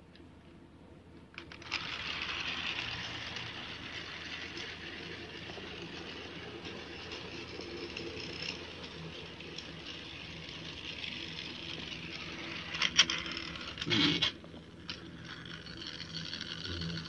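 Rail King 19033 toy train running: a steady mechanical whir and rattle from its small motor and wheels, starting about a second and a half in, with a few sharp knocks near the end.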